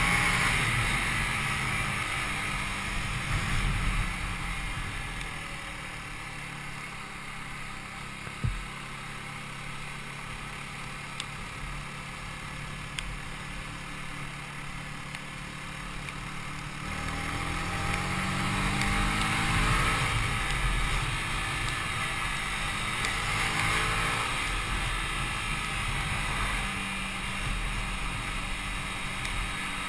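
Yamaha YZF-R125's 125cc single-cylinder engine on the move with wind noise. It runs quieter at low revs for around ten seconds, then revs rise as the bike accelerates from a little past halfway, with the wind growing louder. A single sharp knock comes about eight seconds in.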